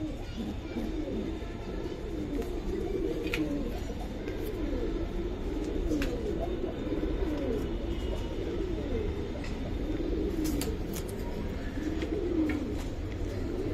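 Several domestic pigeons cooing over one another in a steady stream of low, rising-and-falling coos.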